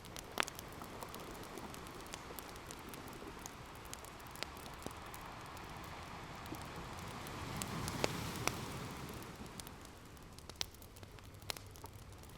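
Open fire crackling, with sharp pops scattered throughout, over the soft wash of ocean waves that swells up to its loudest about eight seconds in and then recedes.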